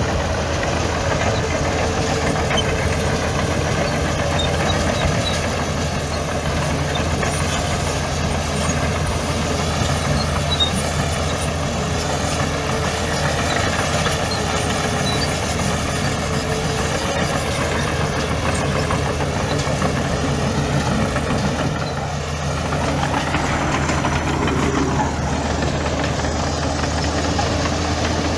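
Heavy diesel engine of earth-moving machinery running steadily, with a brief drop in level and a shift in pitch about three-quarters of the way through.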